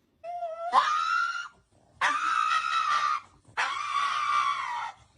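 Three long, high-pitched screams, each lasting about a second, with short pauses between them; the first rises sharply in pitch at its start.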